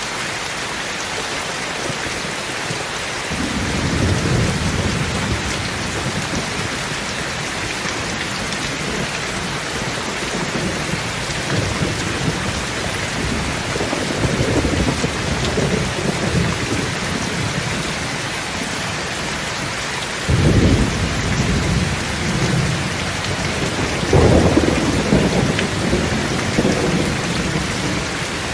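Steady heavy rain with thunder rumbling several times: a low rumble building a few seconds in, more around the middle, a sudden clap about two-thirds of the way through, and another rumble near the end.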